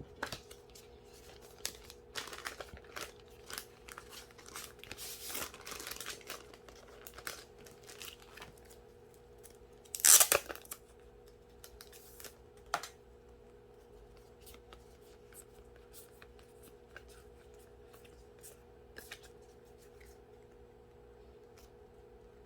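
Packaging being torn open and handled: irregular tearing and crinkling rustles with small clicks, the loudest tear about ten seconds in, then only occasional light taps.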